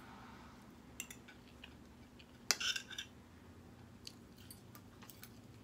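Close-up eating sounds: chewing a forkful of cheesy shirataki-noodle macaroni, with a few light clicks and one sharper click about two and a half seconds in. A low steady hum runs underneath.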